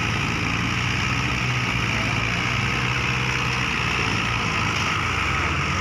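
Engine idling steadily, its speed unchanging.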